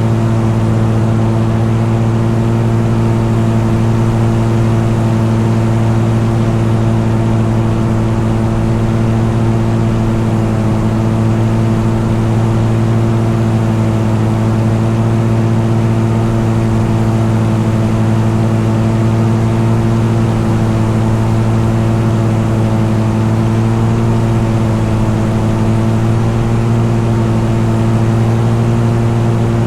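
Light aircraft's piston engine and propeller running at steady cruise power: a constant, even drone that holds one pitch throughout.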